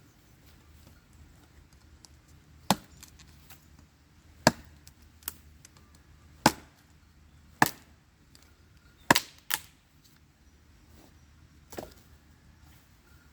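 A tool striking wood in a series of about eight sharp, separate blows, irregularly spaced a second or two apart, two of them in quick succession about two-thirds of the way through; the last blow is weaker than the rest.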